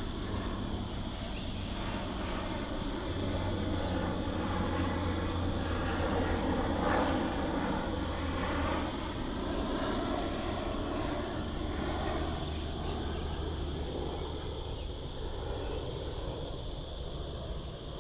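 A passing vehicle's engine noise, swelling to its loudest about seven seconds in and then slowly fading, over a low steady hum.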